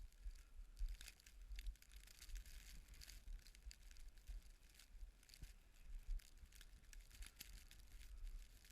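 Faint, irregular crackling and ticking over a low, unsteady rumble.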